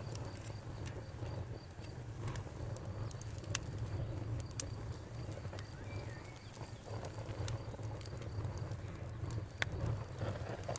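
Wood fire burning with scattered sharp crackles and pops over a low steady rush of flame, while a cricket chirps in a fast, even pulse.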